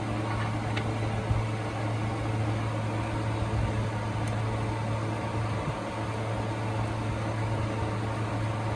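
Steady machine hum, even and unchanging, with a strong low drone and a hiss over it.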